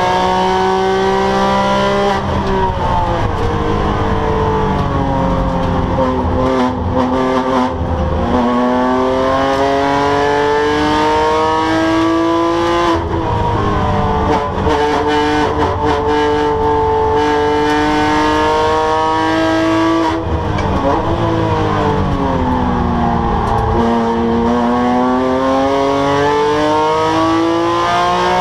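Porsche 997 GT3 flat-six engine at racing speed, its pitch climbing through the gears and dropping sharply under braking and downshifts about three times, then pulling up again.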